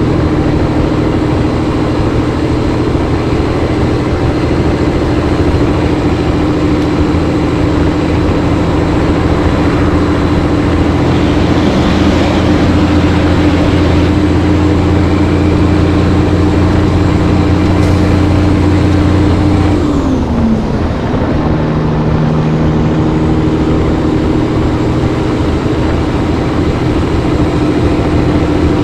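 Caterpillar 3406B diesel of a Peterbilt 362 cabover running steadily under load on the road, heard loud from the cab. About twenty seconds in, the engine note falls and breaks off briefly for a gear change, then comes back at about the same pitch.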